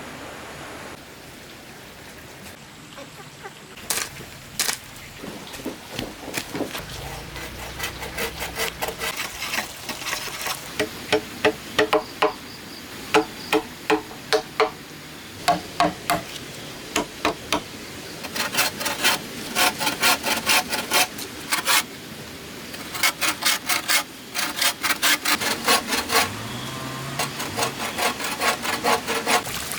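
Repeated sharp, hollow knocks of a blade or tool striking bamboo, coming in quick runs of several strikes a second, each with a short ringing tone.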